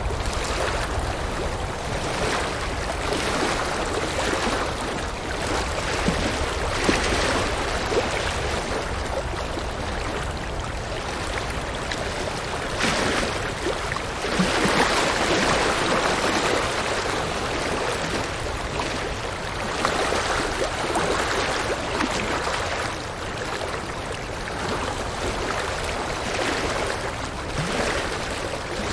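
River water rushing and gurgling over rocks: a steady, full-bodied flow that swells and ebbs gently every second or two.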